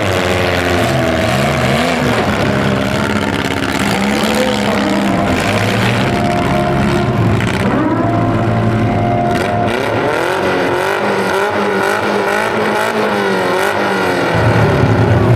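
Several compact-car engines revving up and down at once, their pitches rising and falling and overlapping.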